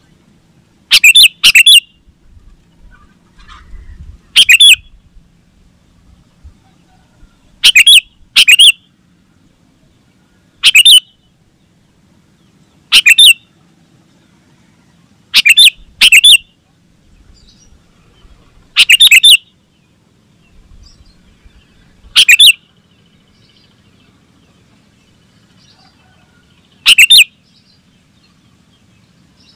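Sooty-headed bulbul (kutilang) giving short, sharp, very loud calls every few seconds, sometimes two in quick succession.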